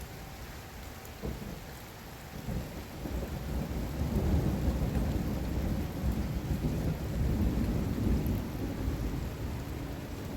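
Rolling thunder over steady heavy rain: a deep rumble swells about three seconds in, stays loudest through the middle and dies away near the end.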